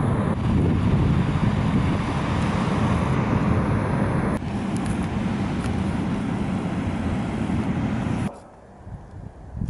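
Railway passenger coach rolling past at close range: a steady rumble of wheels on rails, cutting off suddenly about eight seconds in.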